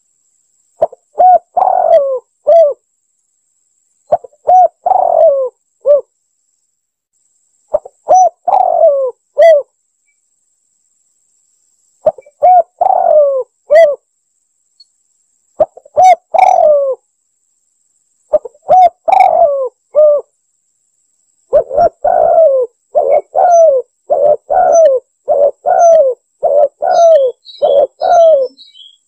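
Spotted dove (tekukur) cooing: short phrases of a few mellow, bending coos repeated every three to four seconds, then a quicker run of back-to-back coos over the last third. A few faint high chirps near the end.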